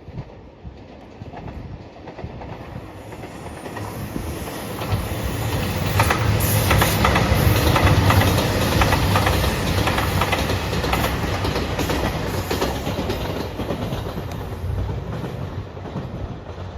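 A train passing close by, its wheels clacking over rail joints. The rumble builds to its loudest about six to nine seconds in, then slowly fades.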